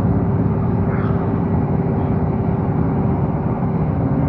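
Train running, heard from inside the carriage: a steady low rumble with a faint constant hum.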